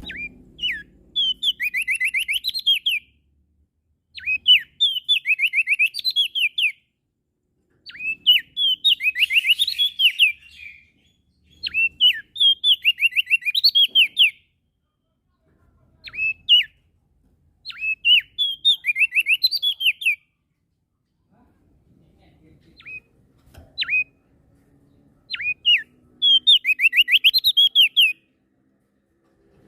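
Prenjak daun songbird singing. It repeats bursts of quick, high notes that slide downward, each phrase a second or two long with short pauses between, and a few single call notes in the pauses.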